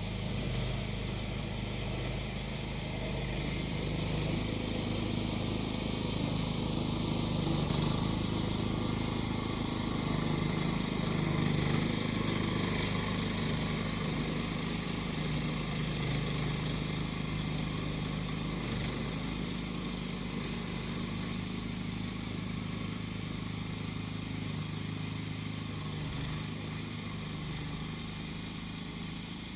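Small engine of a grass-cutting machine running steadily, with cicadas buzzing over it.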